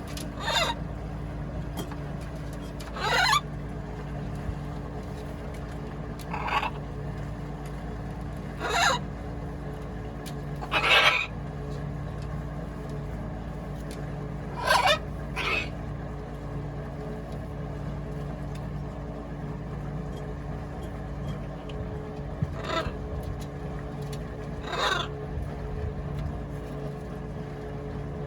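Pet parrots giving short, loud squawks, about ten spaced a few seconds apart, over a steady low hum.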